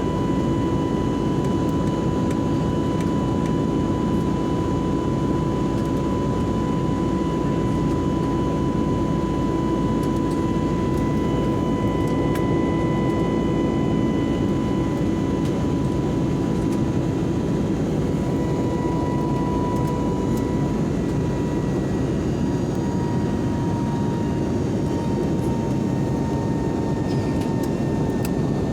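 Steady jet engine and airflow noise inside the cabin of an Airbus airliner in flight, a constant low rumble with a steady high tone that drifts slightly lower in pitch towards the end.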